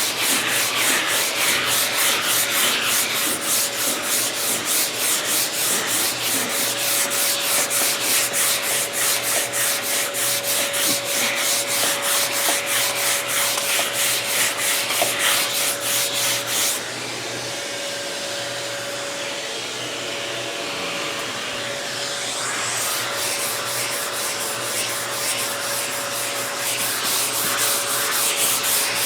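Hand block sanding on a car's body panel: quick, even back-and-forth strokes of sandpaper, about four a second. A little past the middle the strokes give way for several seconds to a softer, steadier rubbing, then return.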